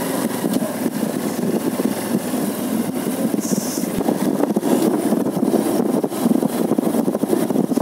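Motorcycle engine running under way at low speed on a newly fitted spark plug, being tried out; a steady, dense rumble.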